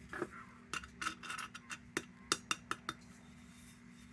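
Light clinks and taps of the Perfection No. 530 kerosene heater's metal parts being handled and fitted together, a dozen or so sharp ticks in quick, uneven succession that thin out near the end, over a faint steady hum.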